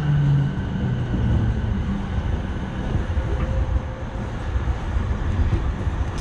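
Electric commuter train slowing to a stop at a station, heard from inside the car: wheel-and-rail rumble, with the motor hum dropping in pitch in the first second or two as it brakes.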